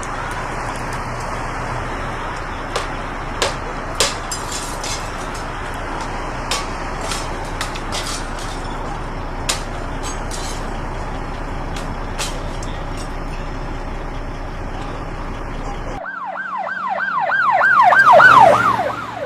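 A steady rumble of engines and traffic with scattered sharp clicks. After a sudden cut, an emergency vehicle's siren in a fast yelp of about four sweeps a second grows loud and drops in pitch as it passes.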